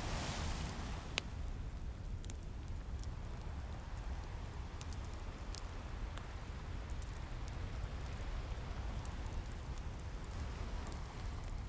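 Ocean waves washing in a steady low rumble, one wave swelling in the first second, mixed with the crackle of a wood fire: scattered small snaps and a sharp pop about a second in.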